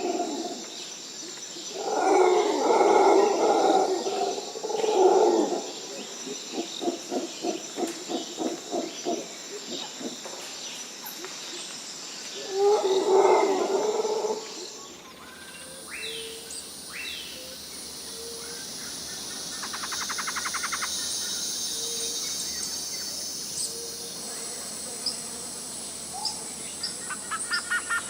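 Mangrove birds calling over a steady high drone of insects: loud, harsh calls twice, then a quick run of pulsed notes at about six a second. After a change in the background partway through come short high chirps and two rapid trills, one near the end.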